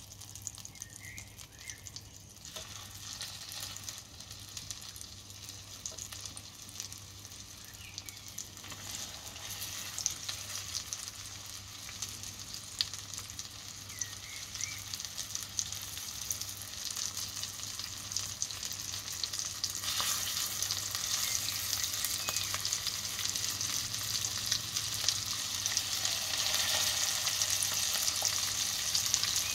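Floured pieces of liver frying in foaming fat in a pan, a steady crackling sizzle that grows louder as more pieces go in, most clearly from about two-thirds of the way through.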